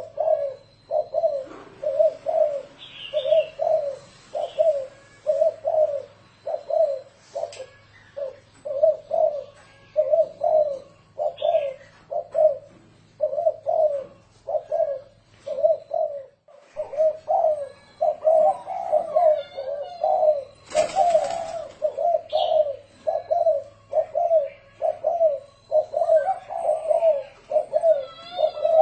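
Spotted dove cooing in a long, steady run of short low coos, about three every two seconds, in the rolling 'thổ rền' style. Faint high chirps sound in the background, and there is a brief rustle about two-thirds of the way through.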